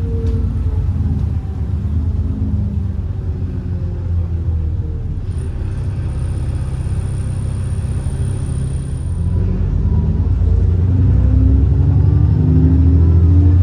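ADL Enviro 400 double-decker bus's diesel engine running under load, with a thin high turbo whistle for about four seconds in the middle. The engine grows louder near the end.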